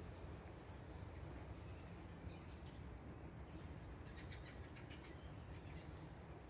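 Faint outdoor woodland ambience: a steady low rumble of wind or handling noise, with small birds chirping a few times in the middle.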